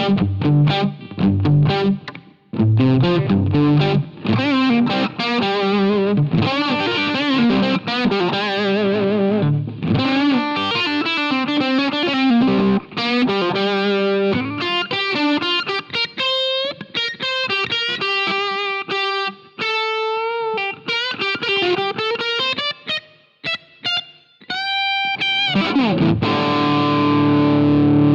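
Electric guitar played through a Jeds Peds AndyChad overdrive pedal, a Nobels ODR-1 clone, with a distorted tone. It opens with rhythmic chords, moves to single-note lead lines with string bends and vibrato, and ends on a ringing chord.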